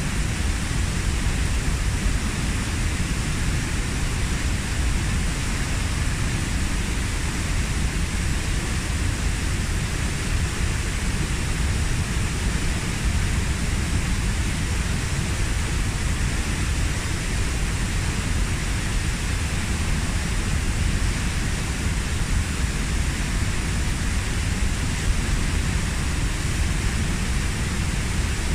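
Kozjak waterfall, about 15 m high, pouring steadily into its pool: a constant deep rushing roar of falling water.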